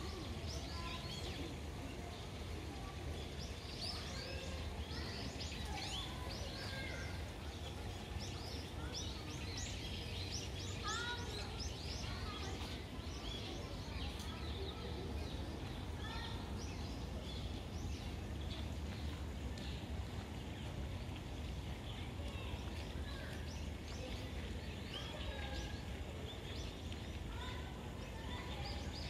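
Small birds chirping in many short, quick calls, thickest in the first half, over a steady low background rumble.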